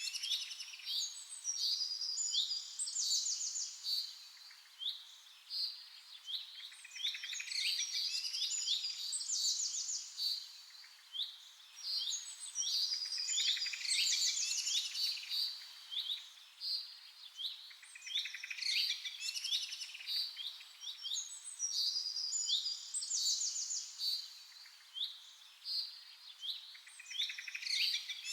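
Small birds chirping and trilling in bursts of a few seconds, quick high descending notes, with short lulls between the bursts about every five seconds.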